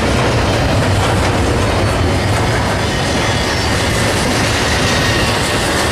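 Freight train rolling past close by: a steady, loud rumble of wheels on rail with clickety-clack over the joints. A faint, thin wheel squeal joins about two seconds in.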